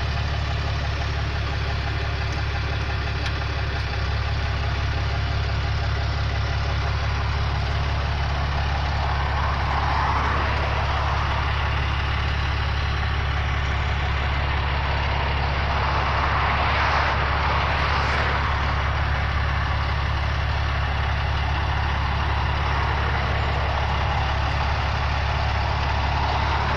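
Tow truck engine idling with a steady low hum, with two brief rushing swells of noise about ten and seventeen seconds in.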